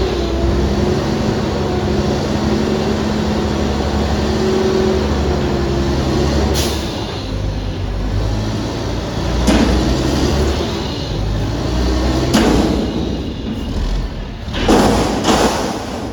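Front-loader garbage truck running hard, its engine revving steadily for the first few seconds. Then come several sudden loud bangs or hisses, about three seconds apart, with two close together near the end.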